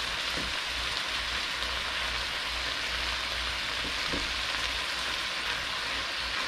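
Marinated tuna chunks and mixed peppers, onions and mushrooms sizzling steadily in a frying pan.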